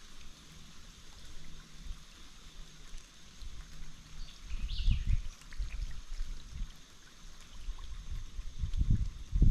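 Creek water running as a faint steady hiss, with irregular low rumbles on the microphone and a single short high chirp about halfway through.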